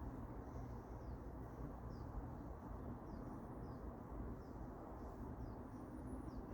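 A bird chirping, short high chirps that fall in pitch about once or twice a second, over a steady low hum of background noise.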